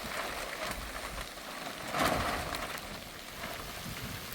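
Steady heavy rain falling, with a brief louder rush about two seconds in.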